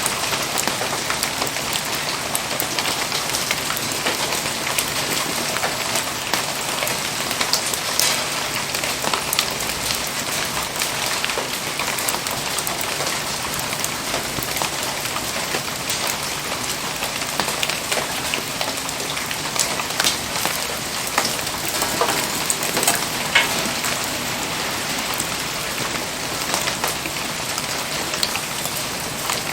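Steady rain falling, a dense even hiss of drops with many sharp ticks scattered through it, a few louder than the rest.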